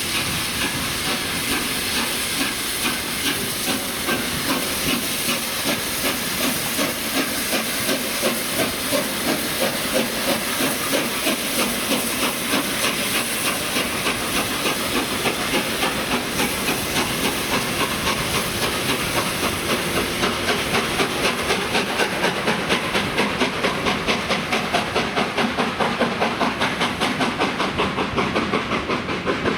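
Steam locomotive working a train, with steady steam hiss and regular exhaust beats that grow quicker as it picks up speed.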